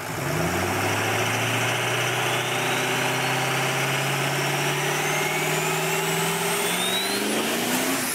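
Car engine running and slowly revving up, its pitch climbing more steeply near the end, with a high whine rising alongside it.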